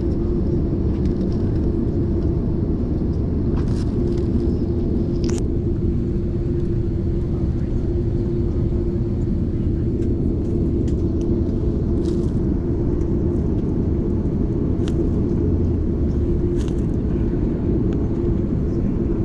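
Steady cabin noise of an Airbus A330 on the ground: a low rumble with a constant hum running underneath, and a few faint clicks.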